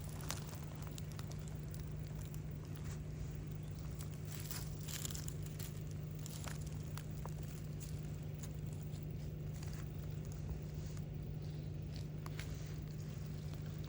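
A steady low hum with many small scattered clicks and crackles over it.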